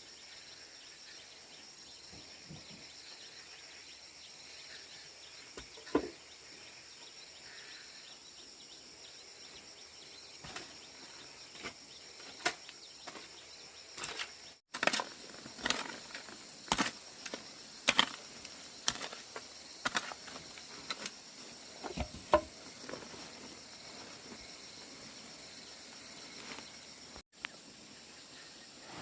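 Irregular sharp knocks and clicks over a steady high hiss. The knocks are sparse at first and come thickly through the middle of the stretch.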